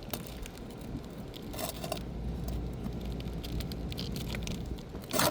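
Asphalt roofing shingles being pried up with a pry bar to get at the roofing nails: faint scrapes, crackles and small clicks, with one louder scrape about a second and a half in and another near the end, over a low steady rumble.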